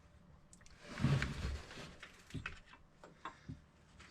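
Light clicks and knocks of tools and metal engine parts being handled, with a dull low thump about a second in.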